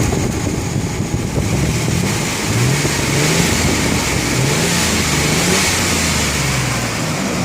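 2002 Chevy S10 pickup engine running and revved several times, its pitch rising and falling with each blip of the throttle. Revved to show it runs with no ticking or knocking.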